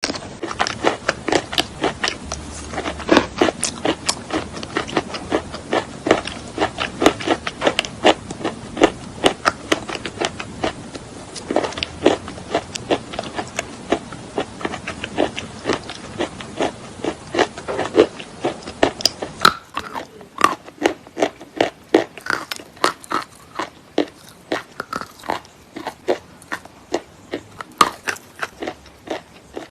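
Close-miked crunching of natural chalk being bitten and chewed: a rapid, continuous run of sharp, wet crunches. About two-thirds of the way in the recording cuts to another take with a quieter background and sparser crunches.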